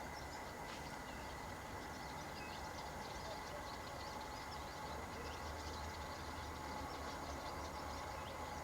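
Faint outdoor ambience: many short, scattered bird chirps over a steady low hum.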